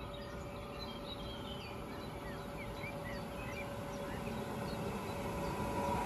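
Songbirds chirping over the low noise of an approaching electric multiple unit, the PKP EN78A-002, which grows steadily louder towards the end.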